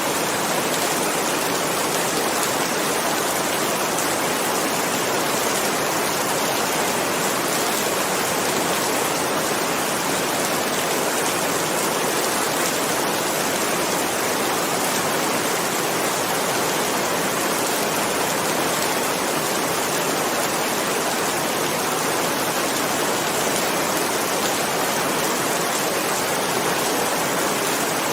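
Steady rain falling, an even, unbroken hiss with no thunder claps.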